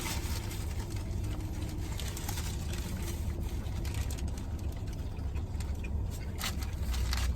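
Steady low rumble of an idling car heard from inside the cabin, with a few faint clicks and rustles over it.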